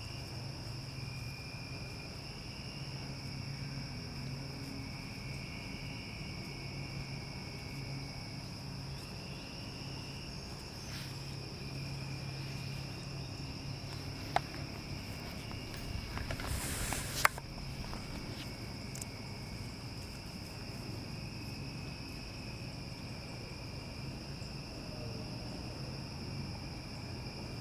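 Steady high-pitched insect chorus with a low hum underneath. A brief rustle and a sharp click come a little over halfway through.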